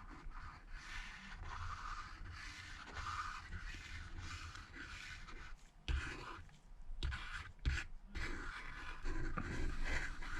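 Quiet, irregular scraping and rubbing of a B7000 glue tube's nozzle being drawn along an iPhone XS Max's back housing, with a few light taps just past the middle.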